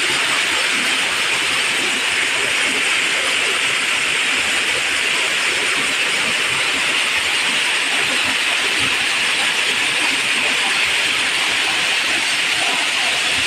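Waterfall: water pouring and rushing in a steady, unbroken hiss.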